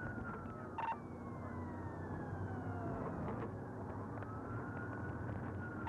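Police siren wailing in a slow fall and rise over a steady low vehicle hum, with a short click about a second in.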